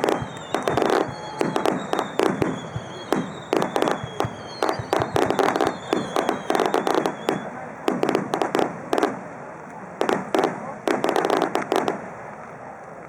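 Aerial fireworks bursting in rapid succession: clusters of sharp bangs and crackles that die away about twelve seconds in.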